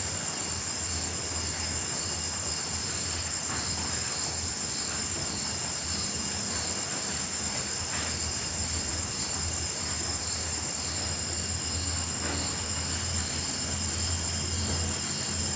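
Night chorus of crickets: steady, high-pitched chirring at several pitches, over a low steady hum.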